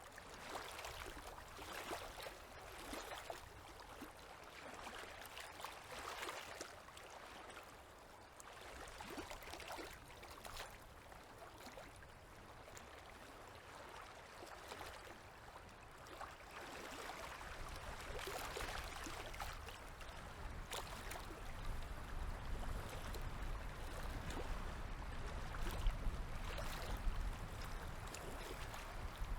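Small river waves lapping and washing in uneven swells every second or two. A low rumble builds through the second half.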